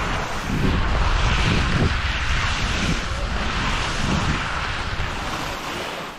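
Loud wind rushing over the microphone, with skis hissing on snow, during a fast ski descent; the rush dies away suddenly near the end.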